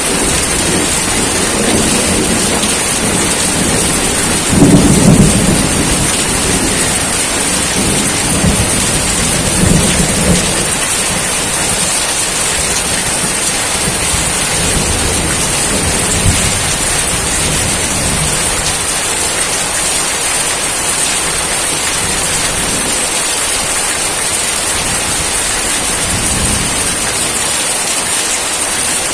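Steady rain with low rolls of thunder underneath, the loudest about five seconds in and weaker rumbles a few more times after.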